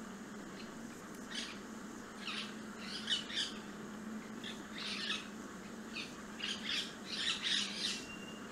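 Wild birds calling: a string of short, separate calls, coming more often in the second half, over a steady low hum.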